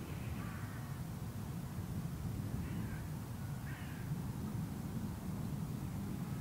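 Three short bird calls, caw-like, over a steady low outdoor rumble.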